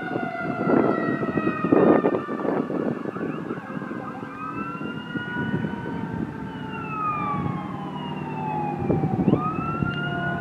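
Fire engine siren wailing as the engine goes by, its pitch sliding down, with a fast yelp about two to three seconds in and the wail rising again near the end. Rumbling truck and road noise swells under it.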